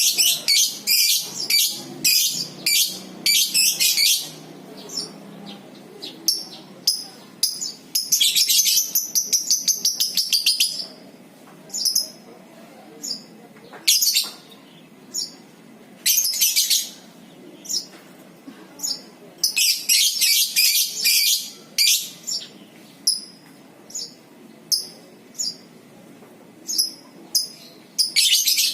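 Lovebirds ngekek: shrill, rapid chattering trills lasting two to three seconds each, several times, with short sharp chirps in between. This is the long continuous chatter that lovebird keepers prize.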